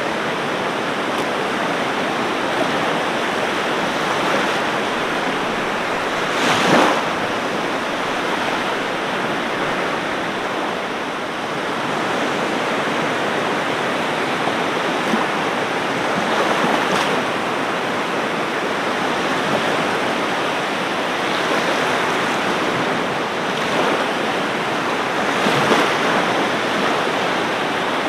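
Ocean surf washing steadily onto a beach, with a louder wave breaking about every nine to ten seconds.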